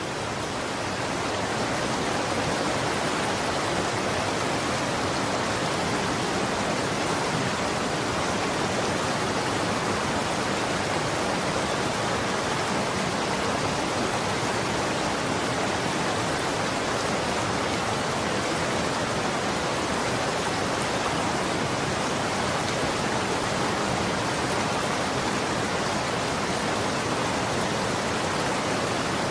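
Running water making a steady, even rush with no breaks or distinct splashes, swelling slightly in the first second or two.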